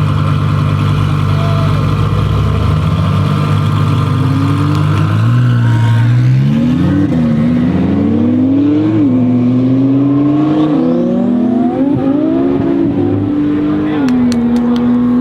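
Twin-turbo Audi R8 V10 engine holding a steady drone, then from about five seconds in accelerating hard, its pitch climbing and dropping back sharply at several gear changes, settling on a steady higher note near the end.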